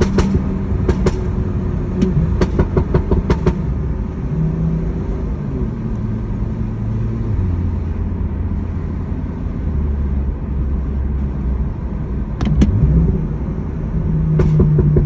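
Exhaust of a BMW M2's tuned N55 turbocharged straight-six crackling and popping in quick bursts on overrun during the first few seconds. The engine then runs steadily, its pitch shifting, and pops again briefly as it revs up near the end.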